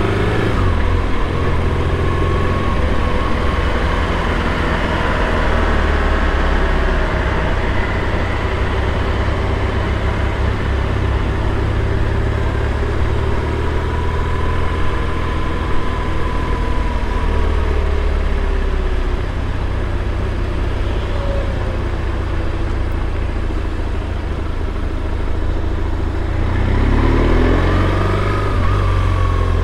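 BMW R1150RT's boxer-twin engine running as the motorcycle rides through slow, dense traffic, with steady road and traffic noise. Near the end the revs rise and then fall again.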